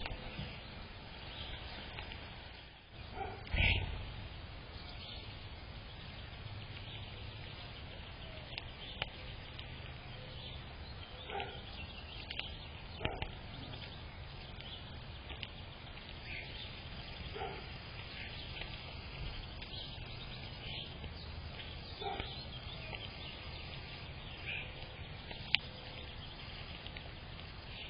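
A short, loud flutter about three and a half seconds in, like a small bird's wings. After it comes steady outdoor background hum with scattered faint, short bird chirps.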